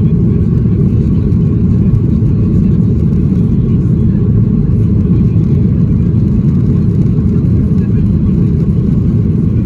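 Boeing 737-800's CFM56-7B turbofan engines heard from inside the passenger cabin: a steady, loud, low roar with a faint, even whine above it.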